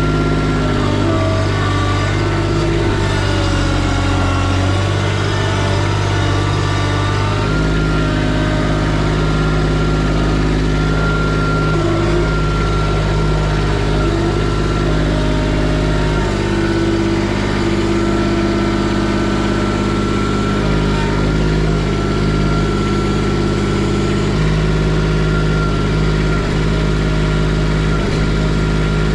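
Kubota tractor engine running steadily, its pitch and load shifting a few times, about every eight seconds.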